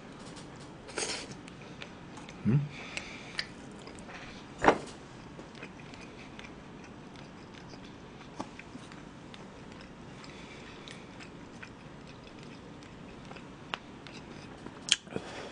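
Close-miked mouth sounds of a person chewing grilled meat: soft wet smacks and scattered short clicks, the sharpest a little under five seconds in, with a brief rising hum about two and a half seconds in.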